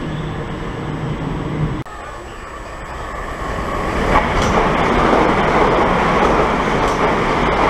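Train running past at a station. The sound breaks off abruptly just under two seconds in, then the rumble grows louder from about three seconds and runs steadily loud.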